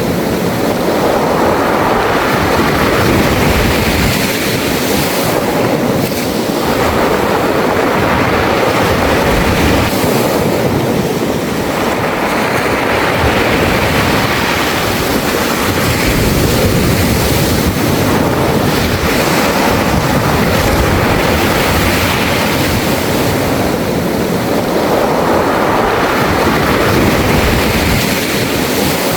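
Sea waves surging and washing over a beach of smooth, round mongdol pebbles, the stones rattling and hissing in the wash. The waves swell and fall back every several seconds.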